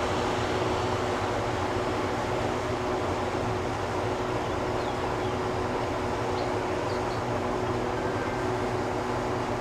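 Steady mechanical hum of a train, with a constant mid-pitched drone and no clear clicks or changes.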